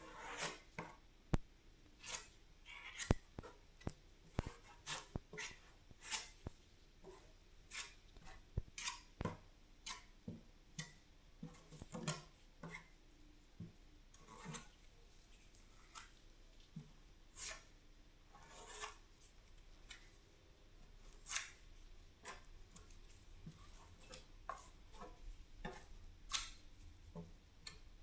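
Faint, irregular clicks, taps and short scraping strokes of hand tools at work, one or two a second.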